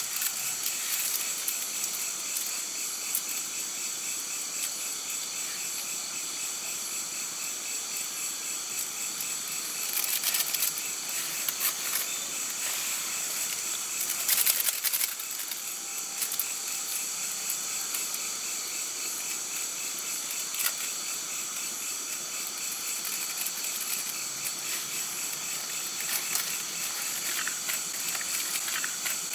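Forest ambience: a steady high hiss with insects trilling continuously, and a few scattered clicks.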